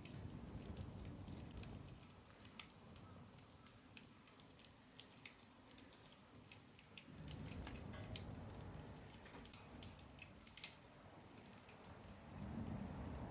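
Pruned branches burning in a stainless-steel secondary-combustion fire pit: an irregular wood-fire crackle of sharp pops and ticks over a low rumble that drops away and swells again about seven seconds in and near the end.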